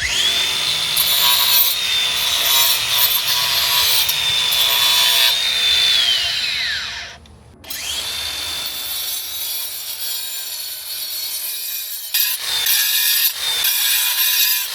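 Angle grinder with a cutting blade grinding into a concrete foundation crack: a high steady motor whine over gritty grinding. About six seconds in the whine falls as the grinder spins down; it starts again a second later, and near the end the blade bites into the concrete in short bursts.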